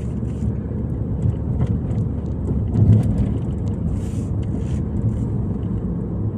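Car interior noise while driving: a steady low rumble of engine and road.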